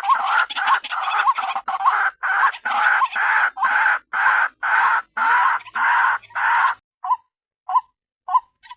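White-breasted waterhen calls played as a lure recording of a female: a fast run of loud, harsh calls about two a second, changing about seven seconds in to short single clucking notes spaced about half a second apart.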